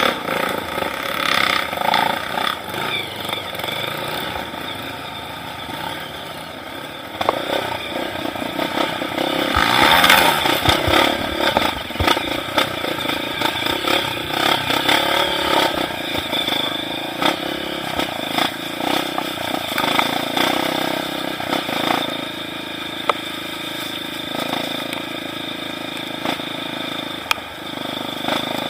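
Trail motorcycle engine running while riding over rough ground, with frequent knocks and rattles, louder around ten seconds in.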